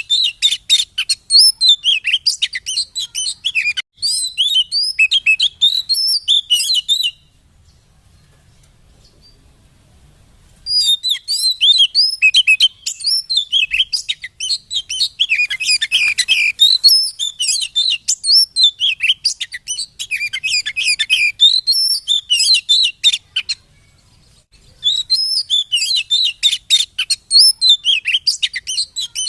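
Oriental magpie-robin song: loud bouts of fast, varied chirps, whistles and chattering trills, used as a lure to excite a caged bird into singing. The singing breaks off twice for a few seconds, about seven seconds in and again near the end.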